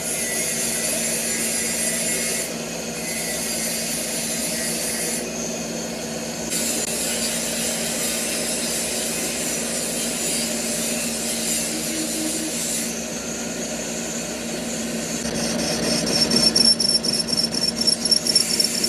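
Metalworking machinery running steadily with a hum and high whine, with a sawing or rasping tool sound. Near the end it turns into a rapid, uneven rasping.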